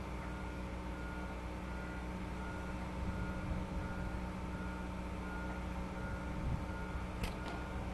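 Motion warning beeper on a yacht transport vehicle, sounding a short high beep about every two-thirds of a second over the steady hum of its drive machinery. Two sharp clicks come near the end.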